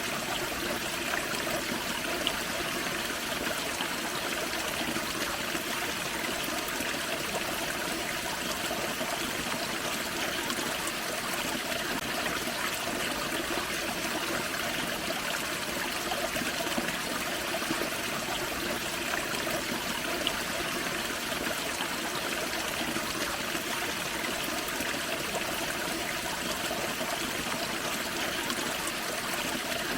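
Small forest waterfall on a creek: water spilling and splashing steadily, an even rushing with trickling over it.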